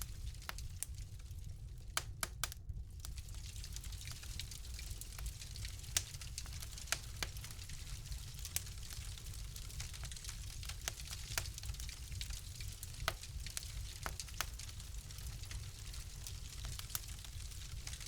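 Fire crackling in a fireplace: irregular sharp pops and snaps over a low, steady rumble, with the loudest pop about six seconds in.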